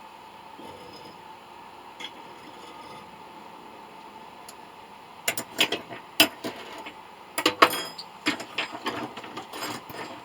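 A faint steady hum, then from about five seconds in a run of sharp, irregular clicks and knocks of hard objects being handled.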